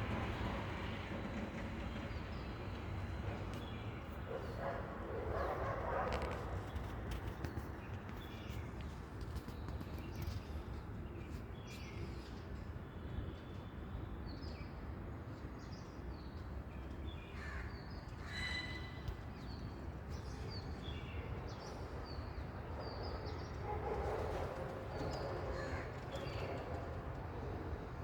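Birds calling over a steady low background rumble: harsh call clusters around a few seconds in and again near the end, with short high chirps in between.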